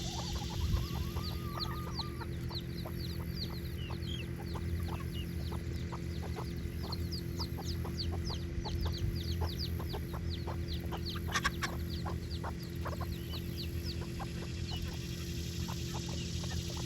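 Chickens clucking, with many short, high, falling peeps and a rising call about a second in, over a steady low hum.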